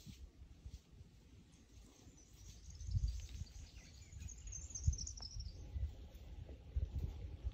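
A bird chirping in a rapid high trill from about two and a half to five and a half seconds in, over irregular low thumps of someone moving through dry bush.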